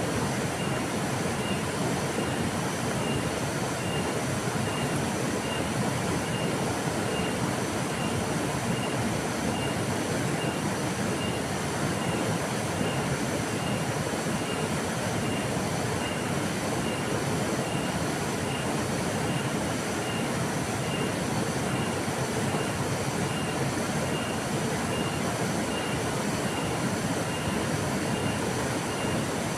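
Steady rushing of a flowing river, an even, unbroken wash of water noise. A faint high chirp repeats a little over once a second throughout.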